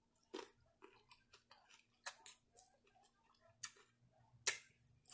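Close-up chewing of a mouthful of shrimp and salad: faint, scattered wet mouth clicks and crunches, the sharpest about two seconds in and again near the end.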